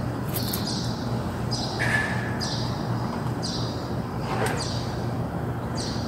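A small bird chirping over and over, short high chirps that fall in pitch, about one a second, over a steady low hum.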